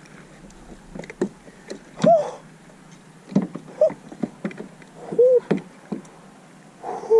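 Irregular knocks and clatter on a plastic fishing kayak while a large bass is fought at the boat, with four short squeaks that rise and fall in pitch.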